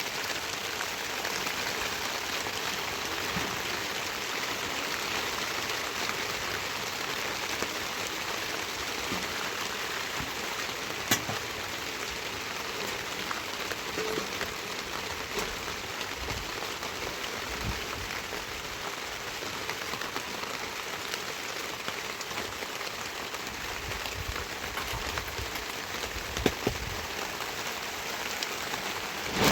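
Steady heavy rain falling, an even hiss, with a sharp knock about eleven seconds in and another near the end.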